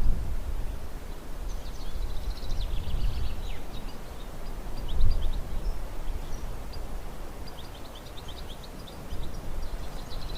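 Small songbirds calling in a forest: quick runs of short, high chirps about a second and a half in and again late on, over a low rumble that swells and fades.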